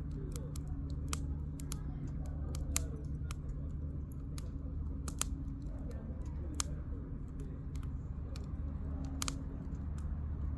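Burning firewood in a campfire crackling, with irregular sharp pops and snaps of varying loudness over a steady low hum.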